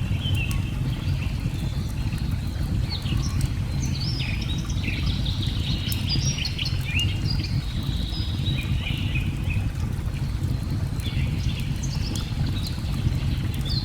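Many birds chirping and twittering over a steady low rush of falling water, with a few faint crackles from a wood fire.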